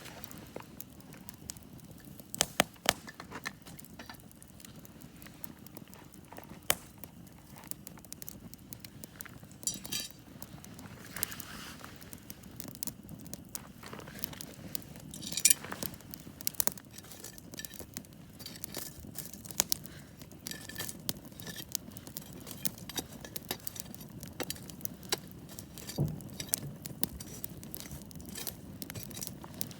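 Wood campfire crackling, with sharp pops scattered throughout and coming more often in the second half, over a steady low rumble.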